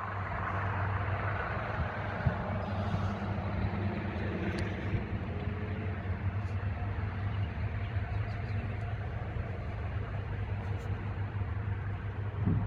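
Steady low rumble of distant road traffic, with a brief bump near the end.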